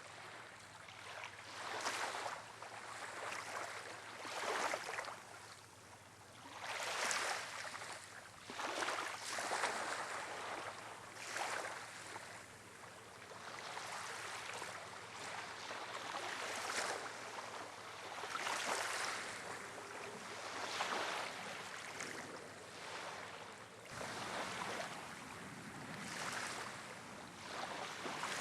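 Small wind-driven waves breaking and washing on a shore, one after another about every two seconds.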